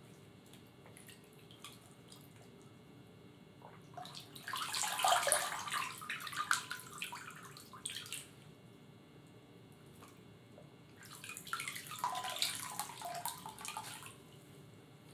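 Liquid poured and splashing into a container, twice: a pour of about four seconds starting about four seconds in, and a shorter one near eleven seconds in.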